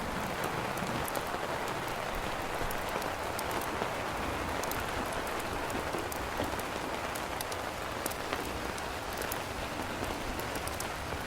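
Steady rain falling on a campfire: a constant hiss with many sharp little pops and ticks scattered through it.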